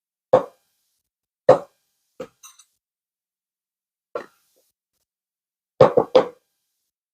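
Short, dull knocks of a measuring cup against a mixing bowl as flour is scooped and tipped in: four single knocks a second or two apart, then three quick ones near the end.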